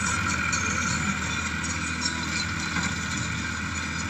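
Powertrac Euro 50 tractor running steadily while driving a baler: a constant engine note under a steady mechanical whine, with faint light ticking.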